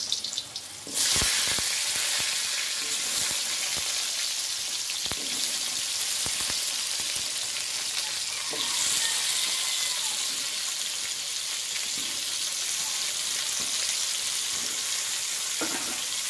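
Cubes of pumpkin sizzling as they fry in hot oil in a kadai. The sizzle jumps louder about a second in and again about halfway through as more pieces go into the oil, with a few light knocks early on as the pieces land.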